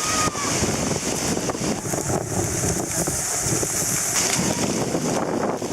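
Strong typhoon wind buffeting the microphone: a continuous, loud rush of wind noise with gusts.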